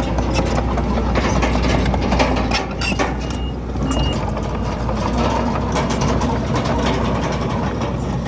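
Heavy diesel earthmoving machinery running steadily, with many short clanks and knocks of metal and rock over the engine. Two short high-pitched tones sound about three and four seconds in.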